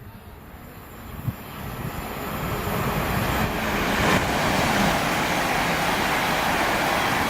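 A train approaching and running through the station, a rushing noise that builds over the first few seconds and then holds loud and steady.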